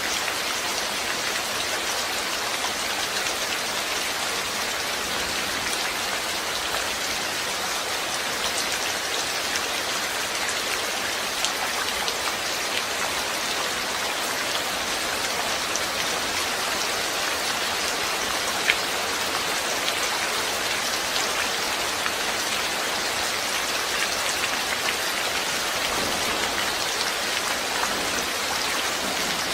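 Steady rain falling, an even hiss with scattered drops ticking on a surface and one sharper drop a little past the middle.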